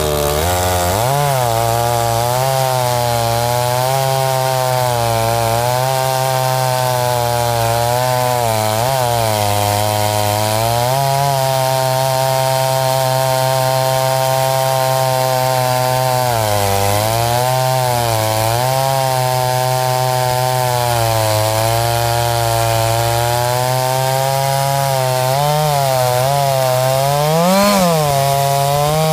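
Chainsaw on a chainsaw mill running at high revs under load as it cuts through a log. Its pitch sags briefly every several seconds and recovers, with a short rise near the end.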